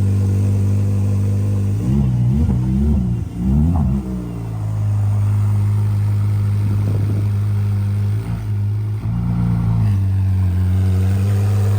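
Ferrari engine running at a steady low idle, blipped up and down a few quick times about two to four seconds in before settling back to the steady note.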